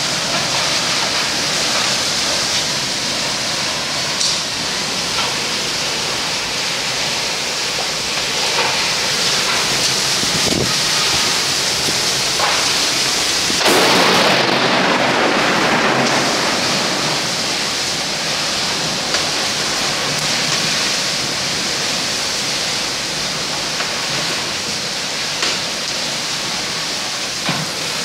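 Torrential rain driven by strong storm winds: a steady, loud rushing hiss. It swells into a louder rush for about two seconds around halfway through, and a few faint knocks sound through it.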